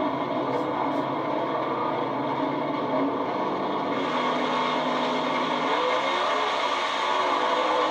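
Naturally aspirated small-block V8 engines of Pro Stock drag-racing trucks running steadily, with several engine tones held together.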